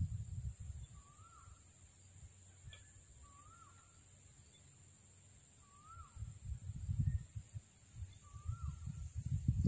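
A bird repeating a short whistled note that rises and falls, about once every two and a half seconds, over a steady high hiss. Low rumbles and thumps come in about six seconds in and are the loudest sounds.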